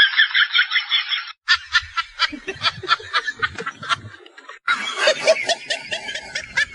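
Rapid snickering laughter, quick repeated 'he-he-he' pulses, in three clips that cut abruptly one into the next, about a second and a half in and again near five seconds.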